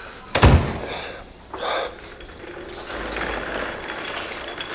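A loud, deep thump about half a second in, followed about a second later by a shorter, softer sound.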